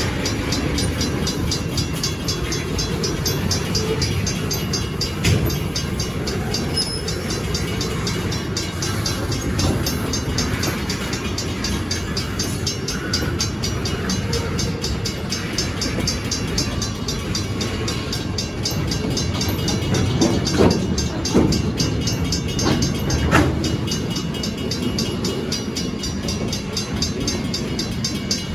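Freight cars of a long train rolling past a grade crossing, a steady rumble of wheels on rail, with a few sharp clanks and squeals about two-thirds of the way through.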